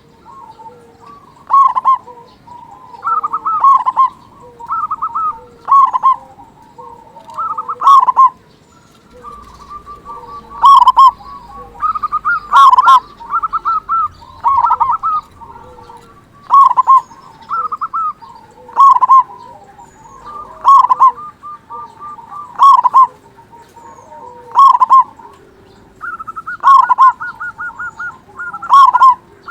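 Zebra dove (perkutut) cooing over and over, a short phrase of quick notes about every two seconds, with a faster stuttering run near the end.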